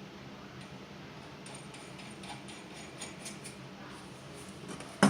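Faint, scattered light clicks and ticks of small steam radiator valve parts being handled and turned, then one sharp knock just before the end.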